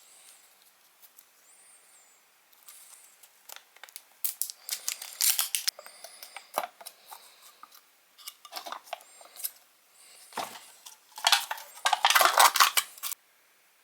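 Kinder Surprise egg being unwrapped and opened by hand: foil crinkling and tearing, with plastic clicks, in irregular bursts. The loudest, densest crinkling comes near the end and stops suddenly.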